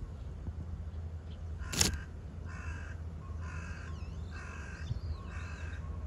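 A bird calling, a run of about five harsh, evenly repeated calls, after a single sharp click about two seconds in.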